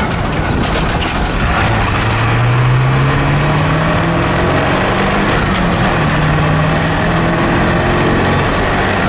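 A 7.3-litre Powerstroke turbo diesel pulling a heavy truck, heard from inside the cab. The engine note climbs under acceleration and then changes pitch in steps as it goes through the manual gearbox, with a faint high whistle rising along with it.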